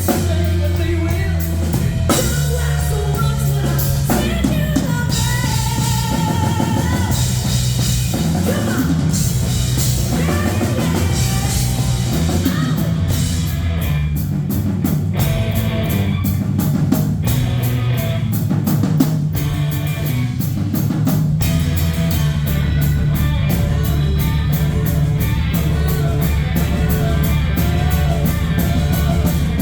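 Live rock band playing with a singer, over a drum kit, guitar and a sustained low bass line. About halfway through, the drums settle into a fast, steady cymbal beat.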